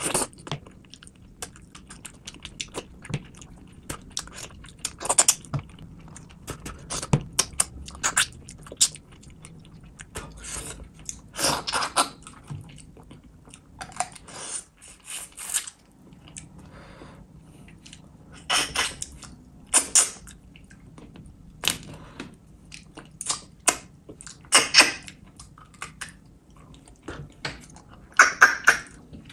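A person chewing a mouthful of rice, fish curry and fish eaten by hand, with irregular sharp wet mouth smacks and clicks coming in clusters, quieter for a moment about halfway through.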